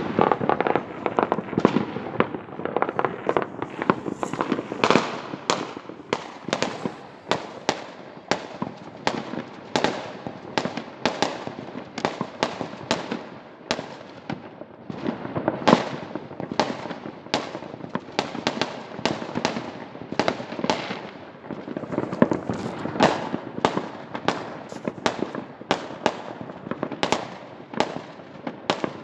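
Many fireworks going off at once across a city: a continuous rumble and crackle of distant bursts with frequent sharper bangs, several a second, never letting up.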